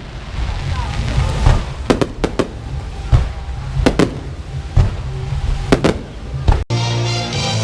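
Fireworks going off in a dozen or so sharp, irregularly spaced bangs. Near the end the sound cuts off abruptly and rock music with drums starts.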